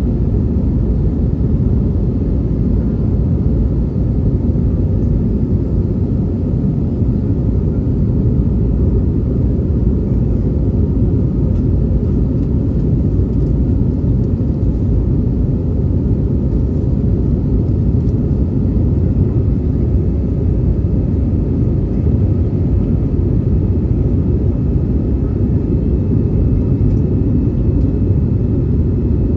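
Steady low roar of an Airbus A319's engines and rushing air, heard from inside the passenger cabin in flight.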